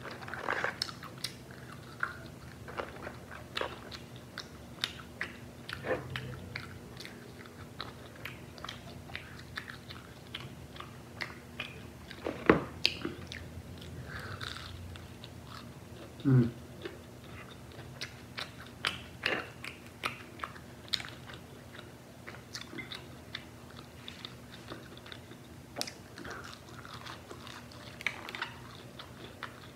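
Close-miked biting and chewing of KFC Hot & Crispy fried chicken: irregular crunches and crackles of the breaded coating, with wet chewing between them. The loudest crunch comes about twelve seconds in, and a brief low pitched sound follows a few seconds later.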